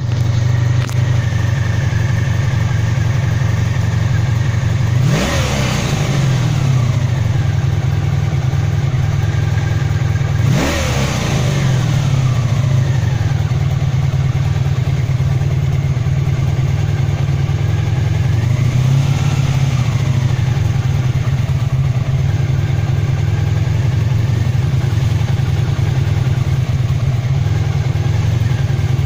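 1982 Honda Sabre's V4 engine idling steadily, revved briefly twice, about five and ten seconds in, and more gently once near the twenty-second mark, each time settling back to idle. The bike has cold-starting trouble that the owner suspects comes from the choke.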